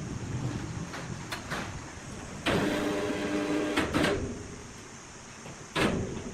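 Sawmill machinery: a steady-pitched mechanical whine starts suddenly about two and a half seconds in and runs for over a second, with sharp knocks and clunks around it.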